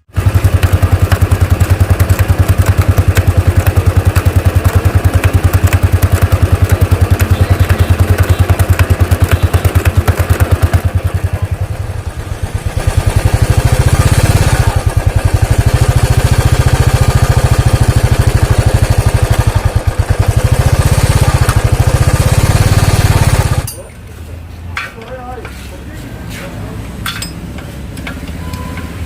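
Royal Enfield Bullet's single-cylinder engine running close by in a fast, steady thump, its pace changing twice. It shuts off about 23 seconds in, leaving faint ticks and clicks.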